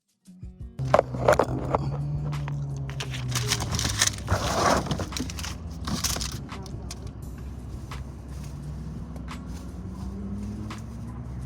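A car engine running, its pitch sinking in the first few seconds and rising again near the end, with knocks and rustling over it.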